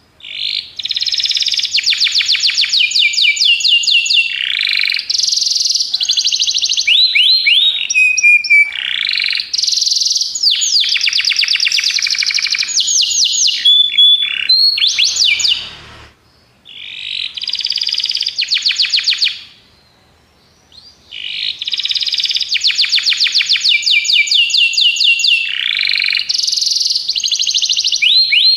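Domestic canary (canário belga) singing long phrases of rapid trills and rolling repeated notes, breaking off briefly twice after the middle before carrying on.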